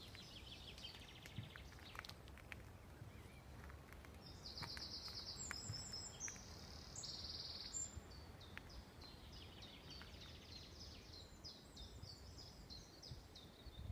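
Faint songbird song in woodland: repeated high, trilled phrases through most of the clip, over a low background rumble with a few faint clicks.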